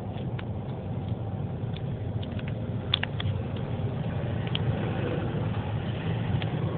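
Steady low rumble of a car on the move, engine and road noise, with a few faint clicks.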